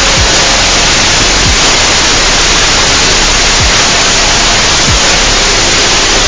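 Loud, steady synthesized noise, a dense even hiss like static, with faint held tones underneath. Four short low tones drop sharply in pitch at uneven intervals, about every one to two seconds.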